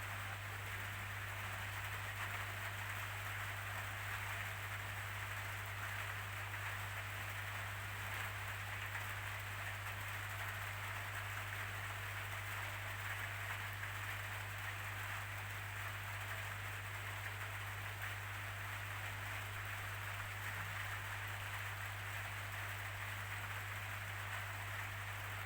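Steady rainfall, an even hiss with no distinct drops or changes, over a constant low drone.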